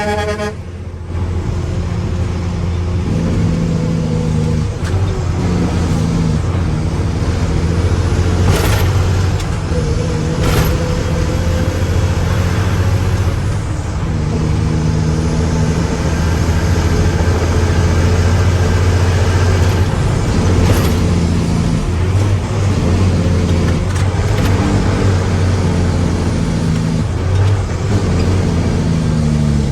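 Mack truck's diesel engine running steadily, with a few short sharp sounds and the revs rising near the end.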